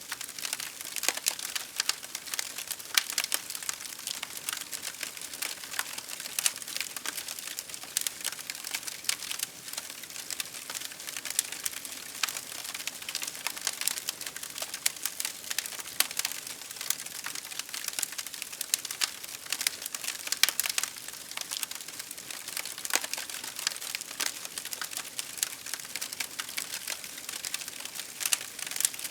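Wood fire crackling steadily, with dense, irregular sharp pops and snaps over a soft hiss.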